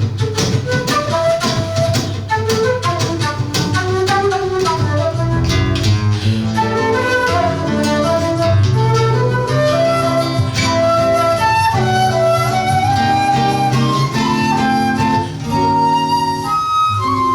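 Flute and seven-string acoustic guitar duo playing live: the flute carries the melody over the guitar's rhythmic chords and bass line. The guitar plucks dense, quick chords in the first few seconds, and the flute holds long high notes near the end.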